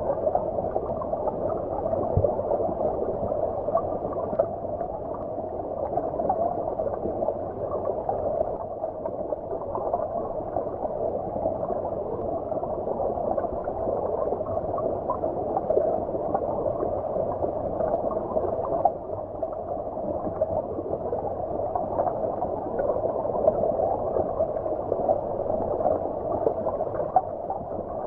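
Shallow stream heard underwater: flowing water gurgling steadily, muffled, with no high tones.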